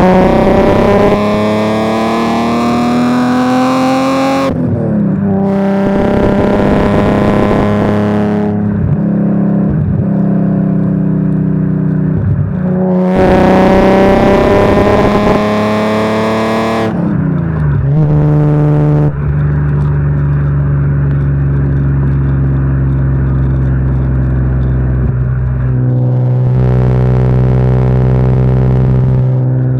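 BMW E36 M3 3.2 Evo's straight-six running through a new exhaust. It revs up under acceleration, drops in pitch at an upshift about four seconds in, and climbs again. A second upshift comes around seventeen seconds in, after which it settles into steady cruising.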